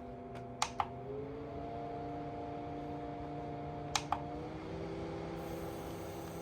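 Mini portable air cooler's fan running with a steady hum; a button clicks about a second in and again about four seconds in, and each time the fan's pitch steps up as it switches to a higher speed.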